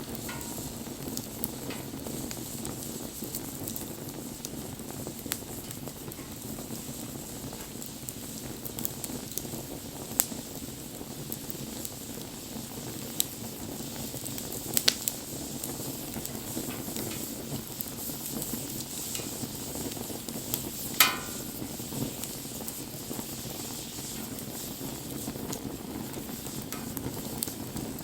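Wood fire burning, with a steady low rush and scattered crackles and sharp pops; the loudest pop comes about three-quarters of the way through.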